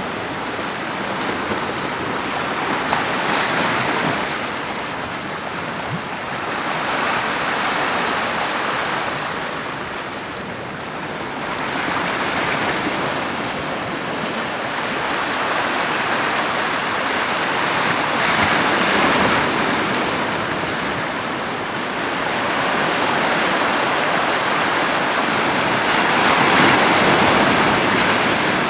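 Heavy typhoon surf breaking and washing onto the shore: a loud, steady rush of water that swells and eases every few seconds as the waves come in.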